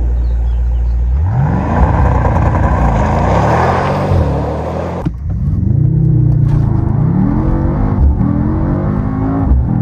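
Mercedes-AMG GT 63 S E Performance's twin-turbocharged 4.0-litre V8 (M177) revving: the pitch climbs about a second in and the engine runs hard for a few seconds. After a sudden break about five seconds in, it is revved several times, the pitch rising and falling with each rev.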